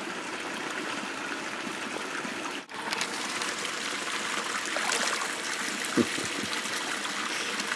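Hot spring water trickling and running steadily, with a momentary break about two and a half seconds in.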